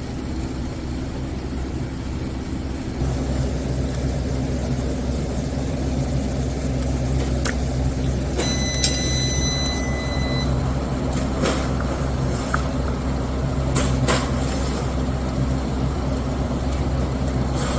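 Small V-twin engine, likely the Kohler ECV 860 EFI, running steadily; it gets louder about three seconds in. A few sharp clicks and a short high beep sound over it partway through.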